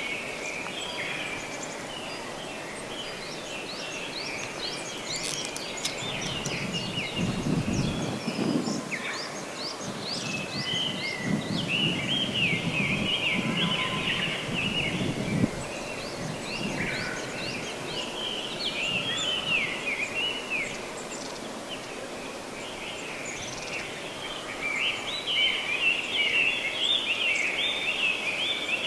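Woodland ambience: several small birds chirping and singing in quick, repeated calls, busiest in the middle and again near the end, over a steady background hiss. A low rumble comes and goes through the middle stretch.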